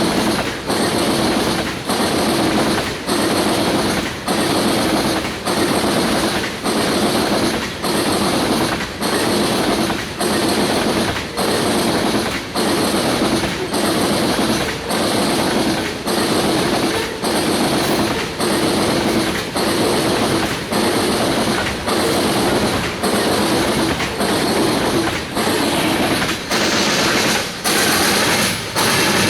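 Loaded tank cars of a freight oil train rolling past close by. The wheel clatter rises and dips in a steady, even rhythm as car after car goes by.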